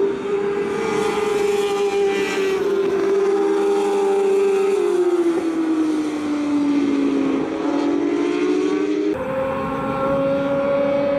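J-GP2 racing motorcycles' 600 cc engines at high revs, two bikes together. Their engine note drops in steps and keeps falling as they slow into the corner, then the two notes separate and climb again. About nine seconds in, a single bike comes in abruptly with a higher, steady engine note.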